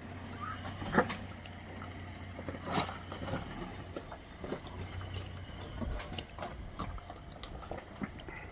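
Off-road vehicle engine idling low and steady, with scattered knocks and scrapes over it, the sharpest about a second in.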